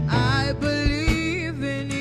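Gospel worship band music: sustained bass and chord notes under a melody line that bends and wavers in pitch, with a few drum hits.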